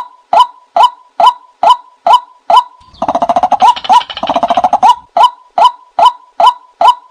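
Bird calls: a short rising note repeated very evenly, a little over twice a second. A fast rattling call breaks in for about two seconds in the middle.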